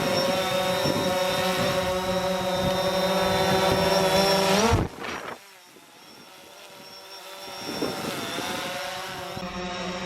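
Quadcopter drone's propellers whining at a steady pitch, rising slightly and cutting off about five seconds in, then coming back softer about three seconds later.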